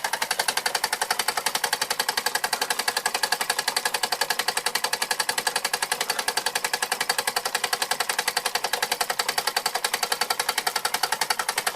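1897 Carette live-steam toy engine running under steam: a fast, even mechanical clatter of about seven or eight beats a second that holds steady throughout.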